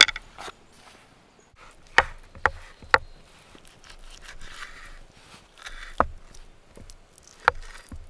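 Firewood being chopped or split: a series of sharp wooden knocks at uneven intervals, about six strikes, with brief rustling between them.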